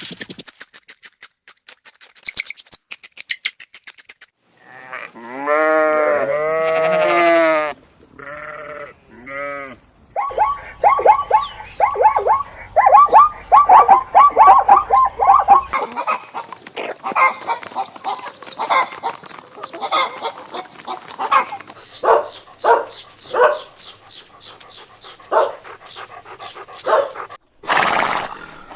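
A string of farm animal calls cut one after another: rapid clicking pulses, then a long wavering call, a few shorter calls, and a fast run of short repeated calls with scattered calls after. The calls are in the goat and sheep bleating range. A brief burst of noise comes near the end.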